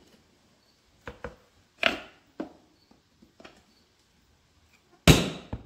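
A pry bar levering at the split lock ring of a Firestone RH-5 multi-piece steel truck wheel: a handful of scattered sharp knocks and scrapes, then one loud knock just after five seconds as the ring gives way a little.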